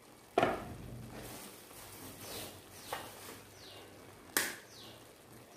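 Sweetened vermicelli sizzling quietly in a pan, with two sharp knocks, one just after the start and one about four seconds in.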